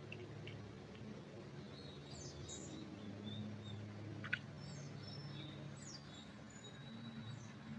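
Faint small birds chirping in a pine forest: short high chirps and quick glides, over a low steady hum. There is a single sharp click about four seconds in.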